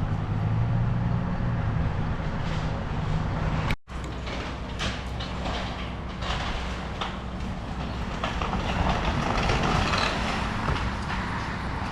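A hydraulic excavator's diesel engine runs steadily while it tears into a house. After an abrupt cut a little under four seconds in, irregular cracking and crunching of breaking wood and debris sounds over the engine rumble.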